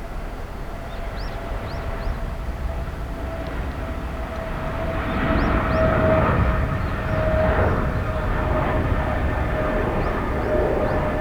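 Jet airliner engines running, a steady whine over a low rumble, growing louder about halfway through.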